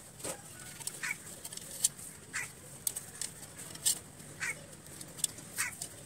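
A bird calling with a short falling note, repeated about every second or so, four or five times. Between the calls there are sharp small clicks and taps from a clay pot and wire being handled.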